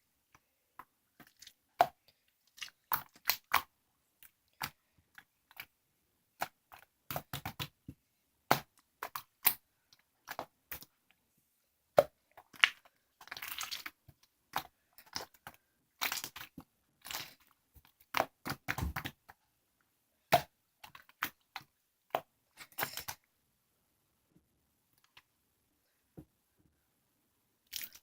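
Irregular crunching and crackling: sharp clicks, some in quick clusters, and a few longer crackly stretches about halfway through, with only scattered faint clicks over the last few seconds.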